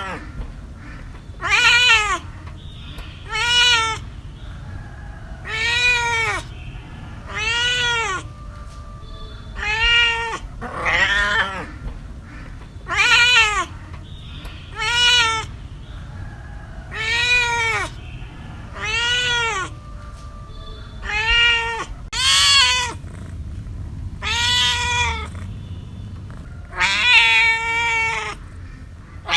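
Cat meowing over and over, about fifteen meows, one every second or two, each rising then falling in pitch, over a faint low hum.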